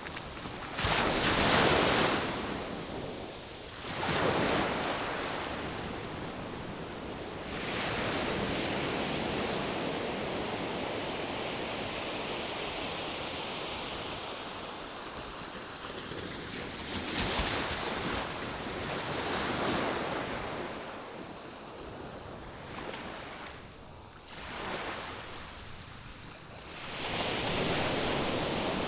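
Ocean waves breaking on a sandy beach: steady surf wash with several louder surges as waves come in and recede, with some wind on the microphone.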